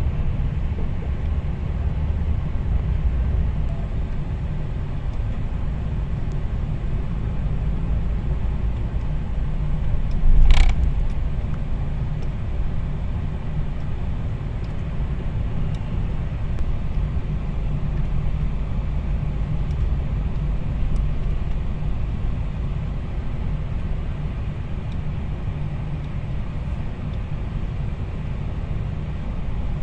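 Car driving on the road: a steady low rumble of engine and tyres, with one sharp knock about ten seconds in.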